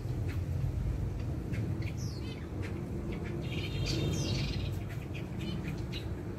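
Caged ornamental birds chirping: many short high chirps and a few quick descending calls, with a busier chattering spell about four seconds in, over a steady low rumble.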